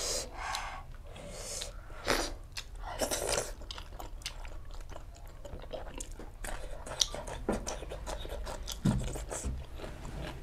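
A person chewing food close to the microphone, with crunching bites and many small wet mouth clicks, and a few short breathy bursts in the first few seconds.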